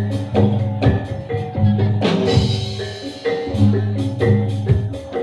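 Live Javanese reog/jaran dor percussion ensemble playing a repeating pattern of struck metal gamelan-type notes over long deep gong tones, with drum strikes. A bright crash comes about two seconds in.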